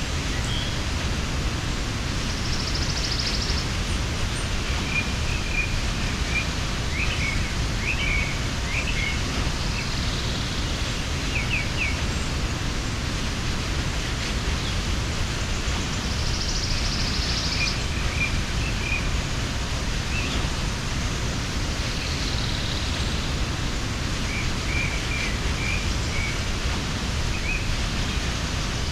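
Mountain waterfall rushing steadily, with small birds chirping at intervals in short clusters over it.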